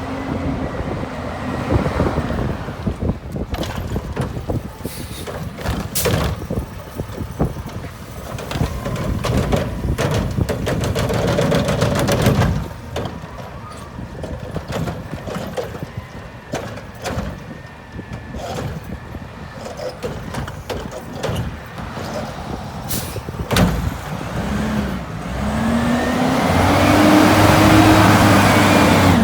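Garbage truck with a Curotto-Can automated cart arm working through a collection: diesel engine running, with clanks and knocks of the arm and carts and a sharp air hiss from the brakes. Near the end the engine revs up and back down as the hydraulics run an arm cycle.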